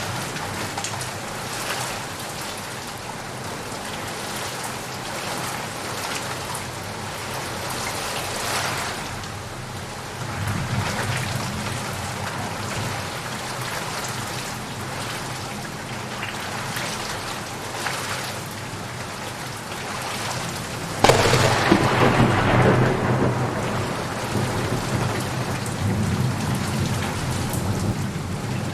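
Steady rain falling with rolling thunder. About twenty seconds in comes a sudden loud thunderclap that rumbles away over several seconds.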